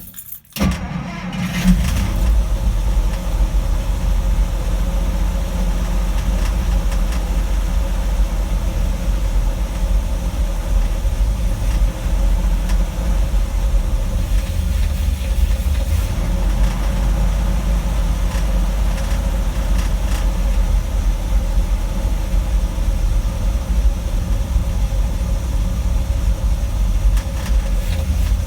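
1960 Dodge Power Wagon's 318 Poly V8 turning over and catching about a second and a half in, then running steadily at a high idle. The engine is known to start hard and idle high.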